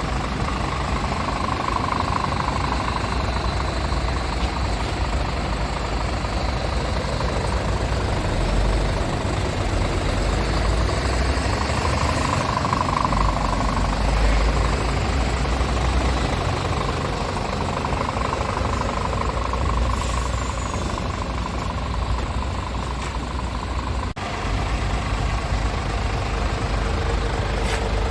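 Scania S tractor unit's engine idling steadily.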